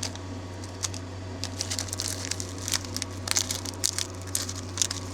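Plastic packet of dried vegetables crinkling as it is handled and shaken out into an instant ramen bowl, with irregular light ticks and crackles.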